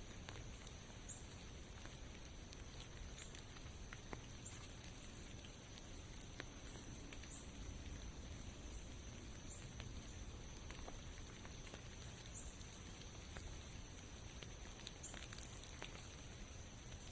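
Light rain pattering in a forest, with scattered single drips and a steady faint high-pitched tone over it.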